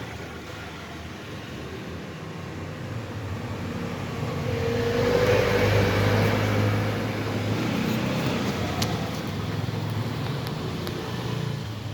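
A motor vehicle's engine running, growing louder to a peak about five seconds in and then easing off.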